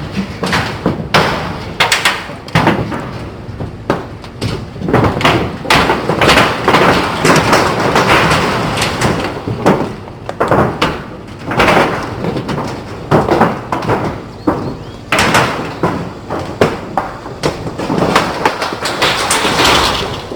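Tin roofing sheets being moved and handled: irregular bangs, clatter and scraping, with no steady rhythm.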